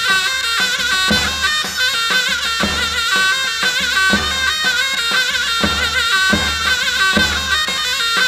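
Turkish folk music (türkü): a wind instrument playing a continuous, wavering melody over a steady drum beat of about one stroke every three-quarters of a second.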